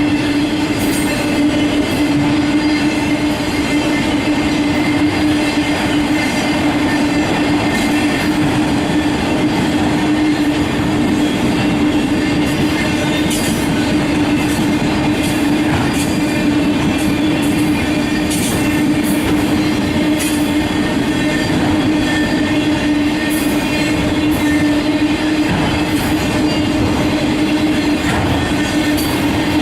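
Freight train cars rolling past, a loud steady rumble with a steady tone held throughout and scattered sharp clicks.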